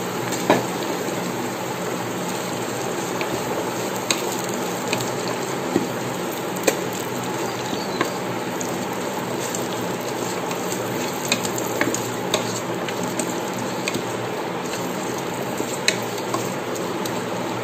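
Mint and coriander leaves sizzling steadily in hot oil in an electric rice cooker's inner pot, stirred with a wooden spatula that now and then knocks and scrapes against the pot.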